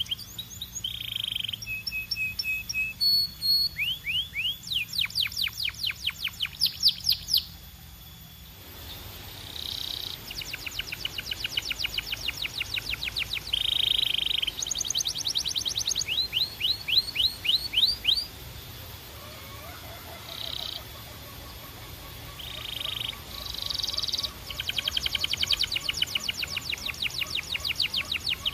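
Canary singing: long rolls of fast, rising trilled notes and short held whistles, high-pitched, with brief pauses between phrases.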